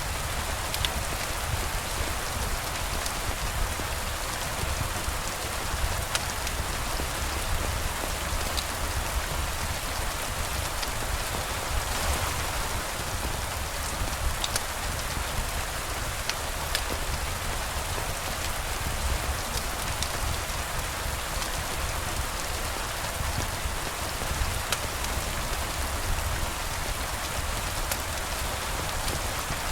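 Steady rain falling, with scattered sharp ticks of single drops over the wash and a low rumble underneath.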